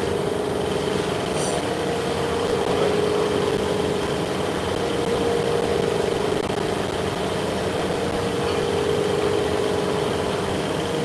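Steady hum of running machine-shop machinery: an even drone with a mid-pitched tone and a fainter high whine above it.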